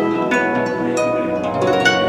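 Harp played solo between vocal lines: single plucked notes, about three in the span, each ringing on over the one before.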